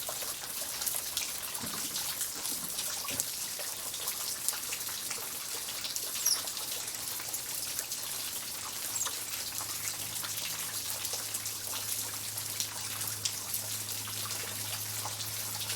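Steady rain falling, with many separate drops dripping and splashing. A faint low hum comes in about ten seconds in.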